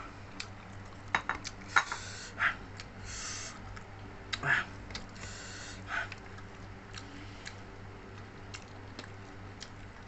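Close-miked eating sounds: chewing and mouth smacking, with scattered small clicks and brief wet hissy bits, fewer toward the end.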